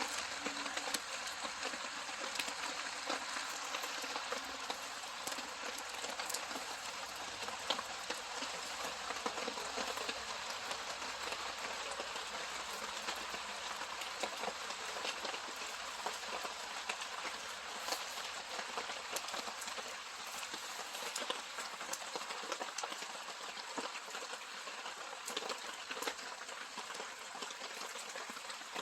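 Steady rain falling around a campfire, with scattered sharp crackles and ticks.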